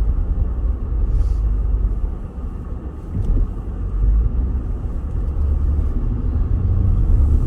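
Car driving on the road: a steady low rumble of engine and tyres, which eases for a moment about two seconds in and then comes back up.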